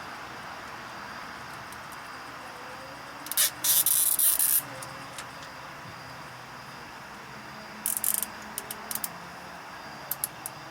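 Pressurised spray hissing in short bursts: one long hiss of about a second, then a shorter one, then several quick spurts near the end.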